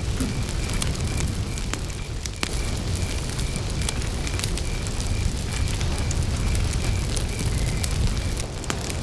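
Campfire crackling, with scattered sharp pops from the burning wood over a steady low rumble. A cricket chirps steadily in the background, about three chirps a second at one pitch.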